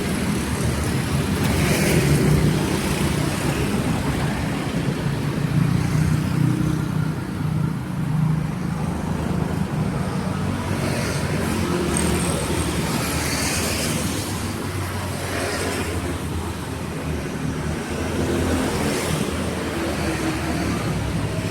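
Street traffic on a wet road: a steady engine hum with vehicles passing, loudest about two seconds in, around thirteen seconds and again near the end.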